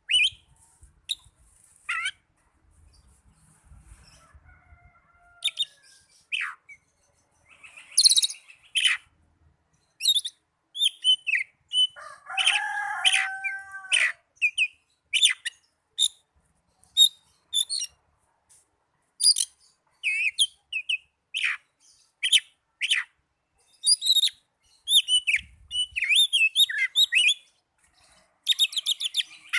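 Oriental magpie-robin singing in short, varied phrases of whistles and chirps with pauses between them. About halfway through comes a lower, harsher call, and a fast trill comes near the end.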